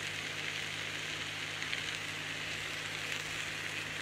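Cauliflower and potato pieces frying in a pan, a steady, even sizzle.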